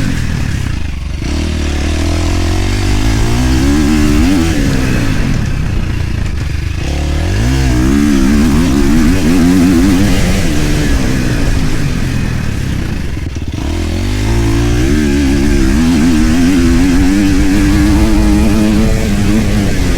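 KTM enduro dirt bike engine under riding, revving up and falling back repeatedly. The throttle is briefly closed about a second in, around six and a half seconds and around thirteen and a half seconds, then the revs climb again.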